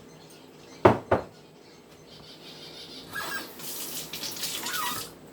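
Two quick sharp knocks, a serving spoon tapped against the pepper dish to drop off salsa, then water running from a kitchen tap for about two seconds before it stops.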